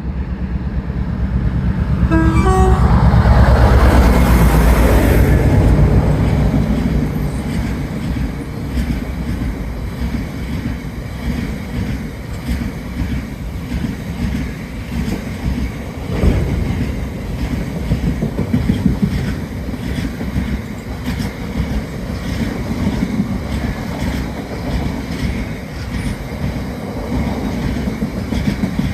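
Class 60 diesel locomotive passing at full power, its Mirrlees eight-cylinder engine thrashing loudest a few seconds in, with a brief horn sound about two seconds in. The train of wagons then rolls past with a steady rumble and wheels clicking over rail joints.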